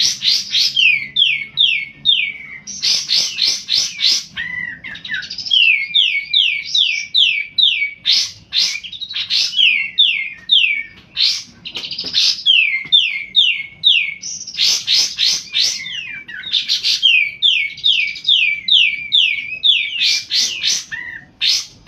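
Kolibri ninja sunbird singing continuously. Each phrase is a burst of quick, high chirps followed by a run of short falling notes, and the phrase repeats every few seconds.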